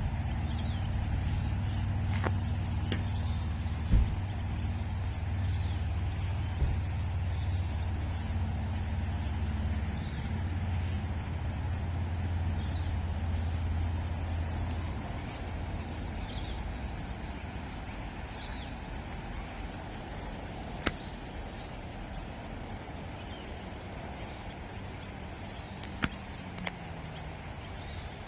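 A vehicle engine running with a steady low hum that fades out about halfway through. Birds chirp repeatedly throughout, and there are a few sharp clicks.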